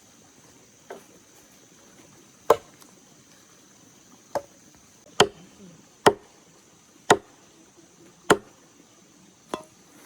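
Wood being chopped with a blade: eight sharp strikes at an uneven pace of about one a second, the first and last lighter than the rest.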